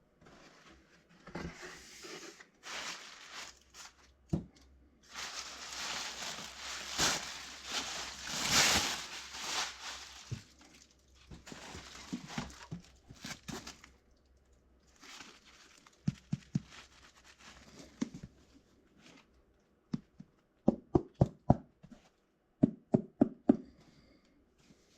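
Shoe-box packaging being unboxed: paper and wrapping rustled and torn in long noisy stretches. Near the end comes a quick run of sharp knocks in two clusters.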